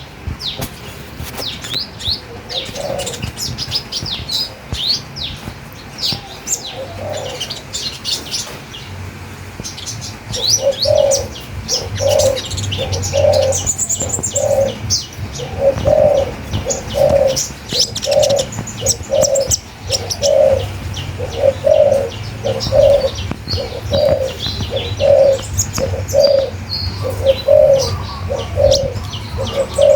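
Birds singing, with many quick high chirps and whistles overlapping throughout. From about ten seconds in, a lower call repeats steadily a little more than once a second.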